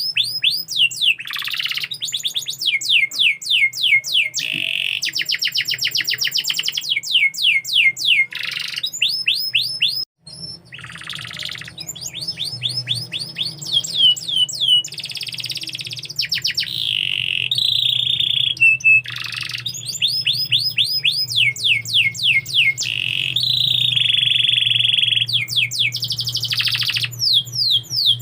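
Domestic canary singing a long, continuous song of fast trills and rapid downward-sweeping notes, broken by a brief gap about ten seconds in.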